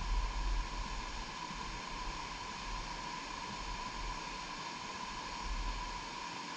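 Wind buffeting the microphone in low gusts, at the start and again near the end, over a steady hiss with a constant thin high tone.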